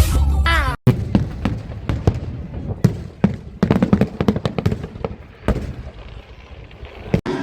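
Fireworks going off: an irregular string of sharp bangs and crackles, most crowded about three to four seconds in.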